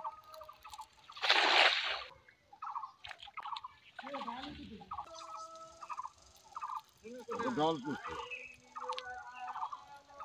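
Birds calling over and over in short, rapid, warbling phrases, with a loud rushing burst of noise about a second in.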